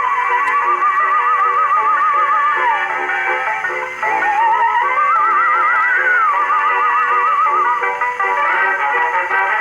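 Victor type III horn phonograph playing a disc record through a rebuilt Exhibition reproducer: a held melody with wide vibrato over accompaniment, sliding down about three seconds in and climbing back up a second later. The sound is thin and midrange-only, as an acoustic horn gives it.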